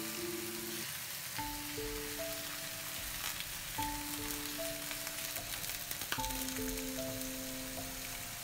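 Thinly sliced pork sizzling as it fries in a pan, a steady hiss with a few light clicks. Soft background music with sustained notes plays throughout, in a short phrase that repeats about every two and a half seconds.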